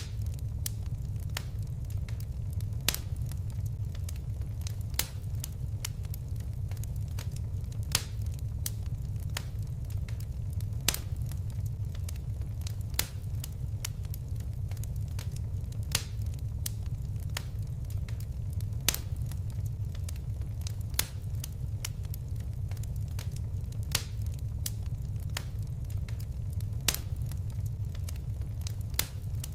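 Fire in a fireplace crackling: a steady low rumble of flames with sharp pops every second or two.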